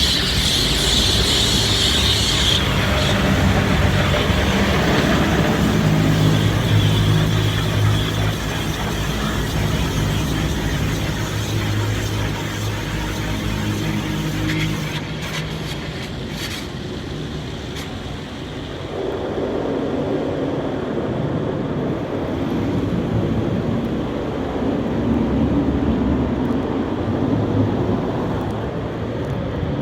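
Automatic car wash machinery heard from inside the car: a steady mechanical hum under rushing, spraying noise, changing to a rougher rushing sound about two-thirds of the way through.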